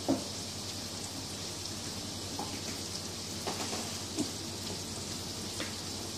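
Hamburger patties sizzling steadily in a hot pan, with a sharp knock at the very start and a few light clicks and knocks later on.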